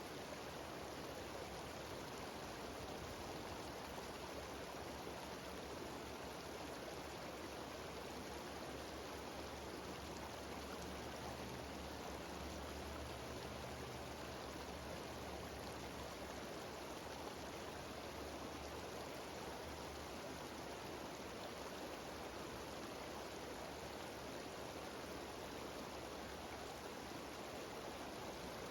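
Steady rush of a cascading mountain stream and waterfall, an even noise with no breaks. A low rumble swells underneath for several seconds in the middle.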